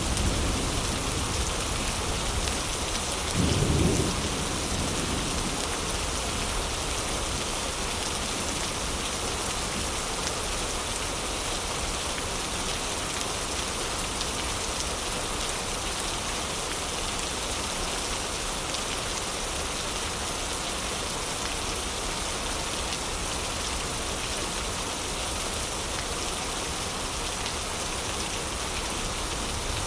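Heavy rain falling steadily, an even hiss, with a short low rumble about three and a half seconds in.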